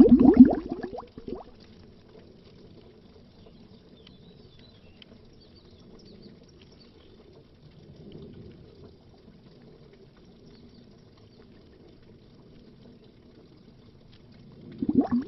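Underwater bubbling, a dense stream of rapid bubbles that stops about a second in. A faint low water rumble follows, and the bubbling starts again near the end.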